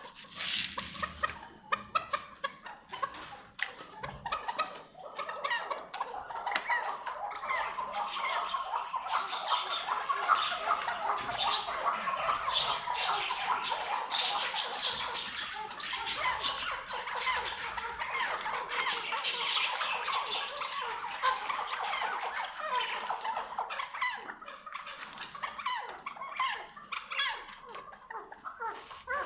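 Maskati chukar partridge (chakor) calling: rapid repeated chuck notes, scattered at first, then running together into a long continuous chattering for about fifteen seconds before thinning out.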